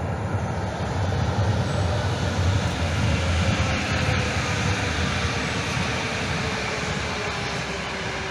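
Calgary CTrain light-rail train running, a loud steady rumble that swells and then slowly eases off, with a faint whine falling slowly in pitch.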